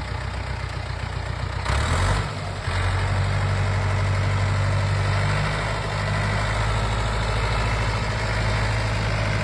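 Tractor engine running at a steady idle. About two seconds in there is a short burst of noise and the engine note dips briefly, then it settles into a steady, slightly louder running note.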